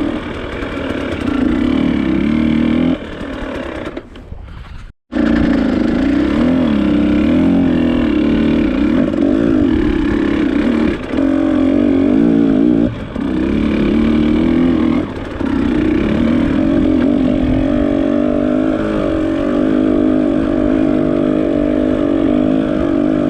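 Off-road trail motorcycle engine running under load, its pitch rising and falling as the throttle is opened and closed over rough ground. The sound drops away briefly about four to five seconds in, then comes back.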